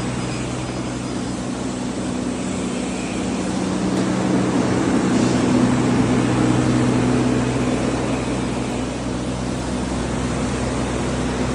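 Large axial fan running steadily with its automatic shutters open: a low steady hum under an even rush of air, swelling slightly in the middle.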